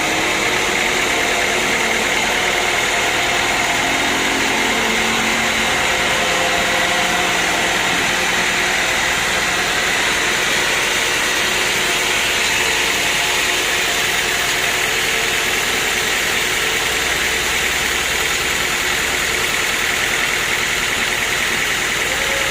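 Sawmill machinery running with a loud, steady, unbroken noise.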